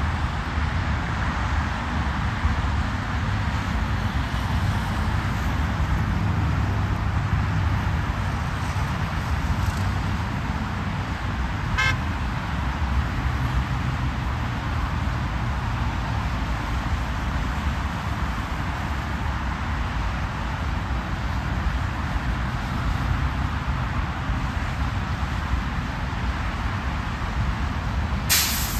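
Steady highway road and traffic noise, with a continuous low rumble of engines and tyres. A short high-pitched beep sounds about twelve seconds in, and a brief sharp burst of noise comes near the end.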